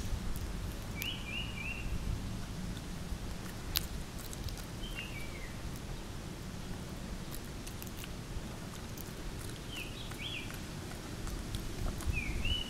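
Outdoor ambience: short high bird chirps, a quick run of three about a second in, single falling notes later, and a pair near the end, over a continuous low background rumble with a few faint clicks.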